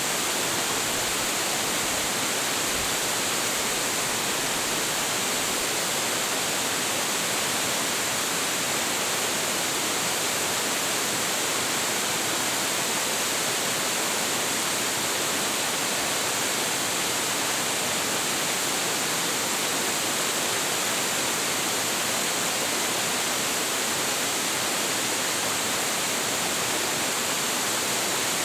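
Large waterfall plunging steadily into its pool, a constant full rush of falling water with a strong hiss in the highs.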